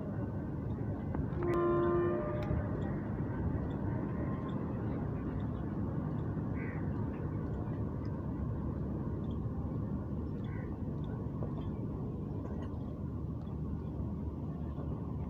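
Passenger train coaches rolling along the rails in a steady low rumble as the train pulls out. A short horn blast sounds about one and a half seconds in.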